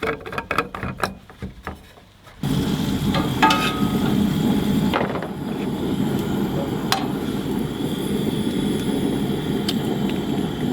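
Clattering and clicking of metal cookware, then a steady low rush of a gas camp-stove burner that starts abruptly about two and a half seconds in, with a few light taps and clinks over it.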